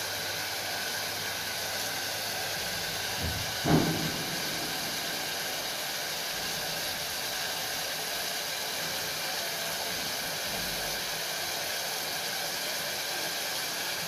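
Sliced onions, tomatoes and green chillies sizzling steadily in hot oil in an open aluminium pressure cooker, with one brief thud a little under four seconds in.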